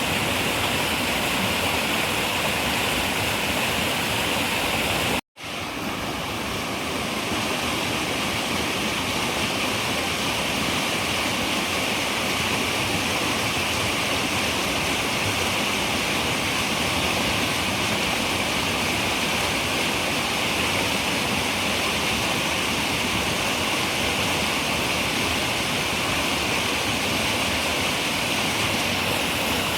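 Running river water rushing steadily. About five seconds in it cuts out to silence for an instant and fades back in, a splice in the looped recording.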